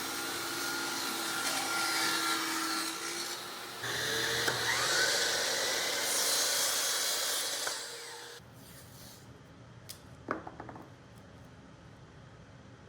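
An electric woodworking power tool runs against wood in two passes of about four seconds each, with a short break between them. It is followed by a few light knocks.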